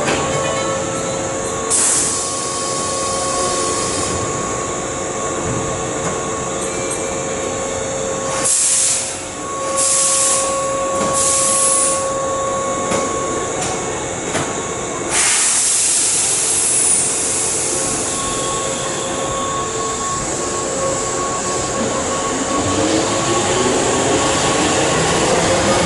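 Keihan 2200-series electric train standing and then starting to pull out of an underground station, with a steady hum, several loud air hisses in the first two-thirds, and a rising whine in the last few seconds as it gathers speed.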